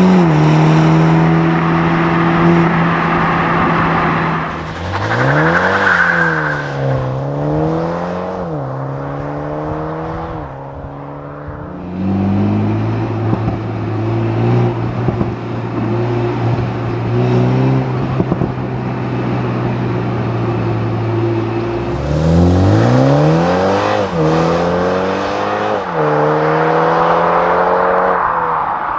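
Toyota GR Supra 2.0's turbocharged BMW four-cylinder engine and exhaust. It runs steadily, then revs climb and drop back several times as it pulls through the gears, followed by a long steady stretch with a few crackles. Near the end it accelerates through the gears again, and the sound fades at the very end.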